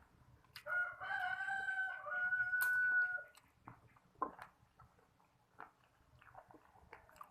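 A rooster crowing once in the background: one long call of nearly three seconds, starting under a second in.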